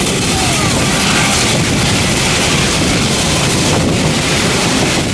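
Steady loud rumble and hiss of wind buffeting the microphone, with a low drone underneath.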